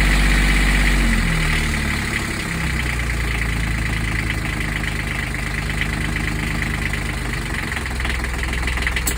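Beta 20 three-cylinder marine diesel running in neutral, its revs easing down about a second in to a steady idle.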